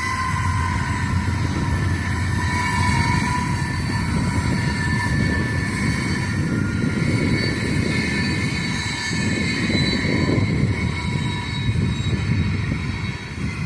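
CSX train running along the tracks: a steady low rumble with a few thin high tones above it.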